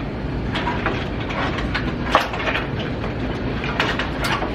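Loosened wooden wall planks being worked free and shifted: a continuous scraping rumble with many knocks and cracks of wood.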